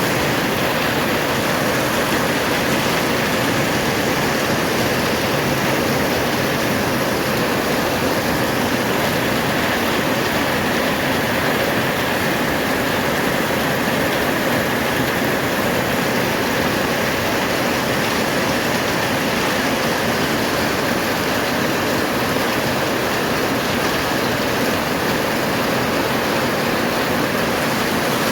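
Heavy tropical-storm rain pouring steadily onto a corrugated zinc roof, a dense unbroken hiss with no let-up.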